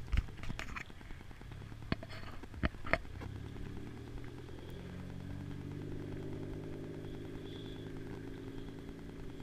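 A car engine running steadily at low revs. It comes in about three seconds in and holds on, after a few sharp knocks.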